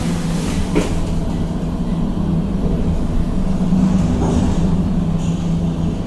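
2004 KONE MiniSpace traction elevator car travelling in its shaft: a steady low hum and rumble that swells slightly through the middle and eases near the end, with a short click about a second in.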